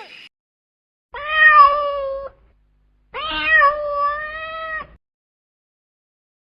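Domestic cat meowing twice: a meow of about a second, then a longer, drawn-out one of nearly two seconds, each held at a steady pitch.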